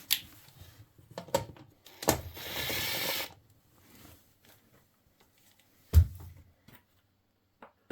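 Ratchet wrench clicking rapidly for about a second while undoing a 10 mm bolt on a motorcycle side cover, with a few light tool clicks before it and one dull thump about six seconds in.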